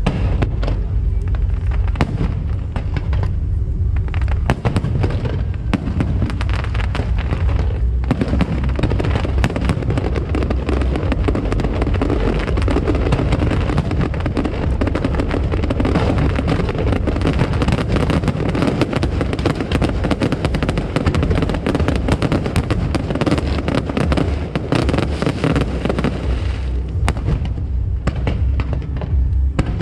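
A fireworks display: a rapid run of bangs and crackling bursts that gets densest from about eight seconds in and thins out near the end, over a steady low rumble.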